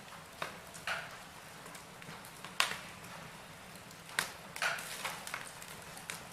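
Wood fire burning in a fireplace: irregular sharp crackles and pops over a faint steady hiss, the loudest pop about two and a half seconds in, with a cluster of smaller ones a little past the middle.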